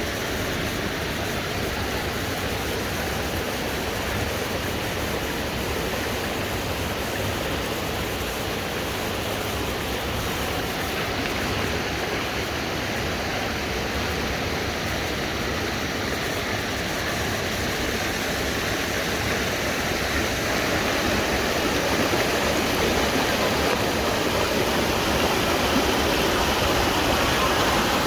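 Waterfall water rushing in a steady, even stream, growing a little louder about two-thirds of the way through.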